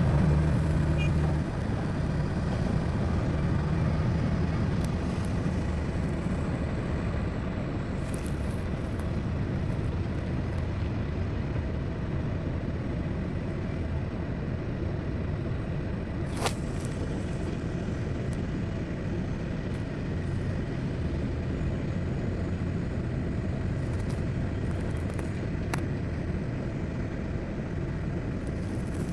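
Heavy diesel earthmoving machinery running steadily with a low rumble, a little louder at first, with a sharp click about halfway through and another near the end.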